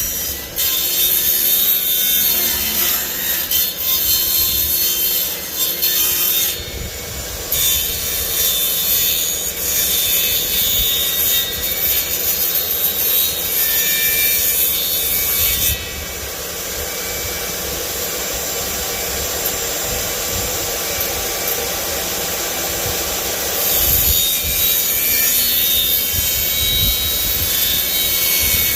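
A power saw cutting wood, running continuously. It eases off about halfway through and bites in harder again near the end.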